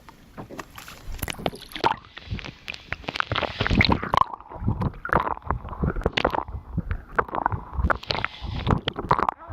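Water sloshing and slapping against the hull of a small boat, an irregular run of splashes and gurgles.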